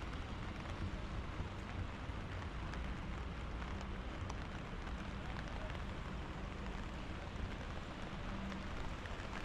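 Steady rain falling on a wet street, an even hiss with a low rumble underneath and scattered light ticks of drops.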